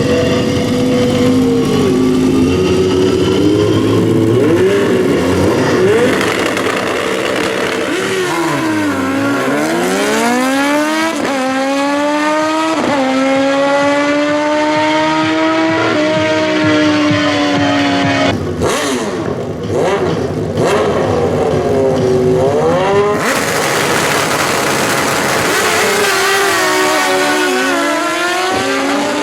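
Drag-racing motorcycle engines run hard. Their pitch climbs and drops sharply again and again as the bikes change gear, with a few brief dropouts a little past the middle.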